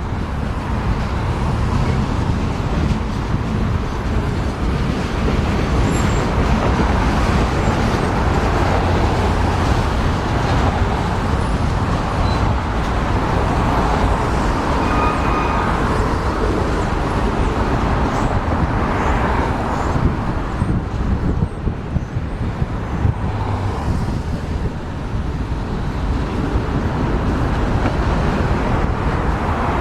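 A train rolling past with a steady rumble and wheel noise on the rails, holding at an even level throughout.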